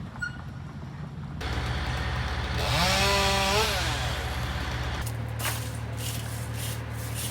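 Chainsaw revving up, running at full speed for about a second, then dropping back, over a steady low engine drone. The sound changes abruptly twice as the footage cuts.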